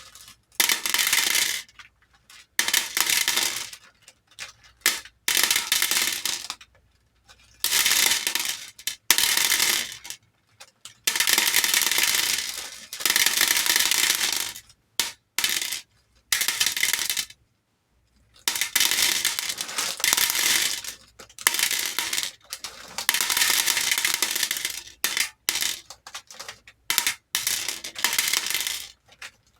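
Hair beads poured into a bowl, clattering in repeated dense rushes of a second or two each with short pauses between.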